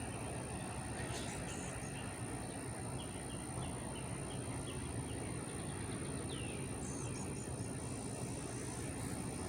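Outdoor ambience: a steady low rumble with a thin high whine throughout, and a few short bird chirps around the middle and again about seven seconds in.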